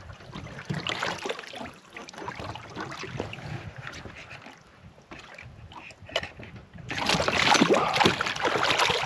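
Water moving and splashing against a small boat's hull, with small knocks, growing louder about seven seconds in.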